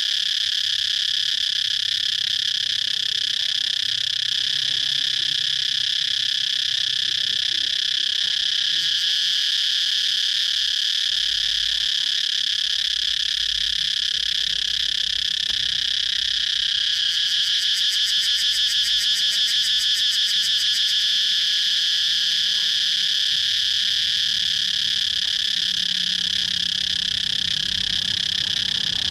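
Cicadas droning steadily at a high pitch. For about four seconds just past the middle, a louder, rapidly pulsing buzz rises over the drone.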